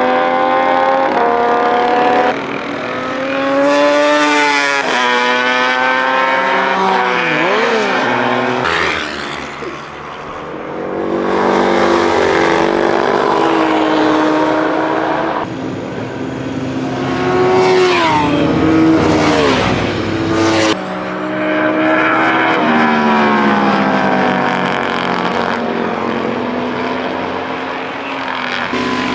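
Classic racing motorcycle engines at racing speed, pitch climbing through the gears and swooping down as bikes pass close by. The sound cuts abruptly from one bike or group to another several times.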